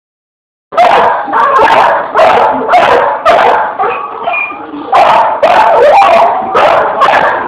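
Pit bull barking excitedly in quick repeated barks, about two a second, starting just under a second in, with a short lull midway.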